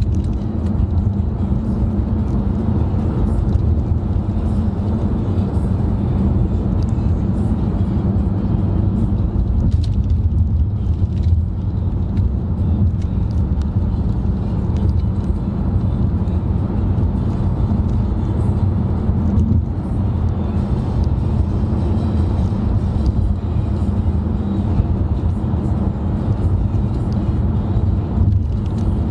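Steady road and engine drone heard inside a moving car's cabin: an even, low rumble with no breaks or changes.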